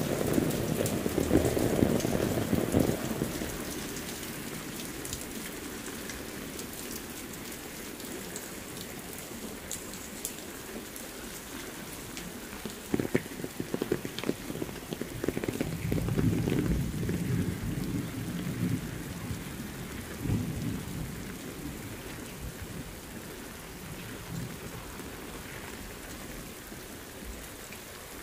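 Heavy rain falling steadily on concrete paving. A low rumble swells up near the start and again a little past halfway.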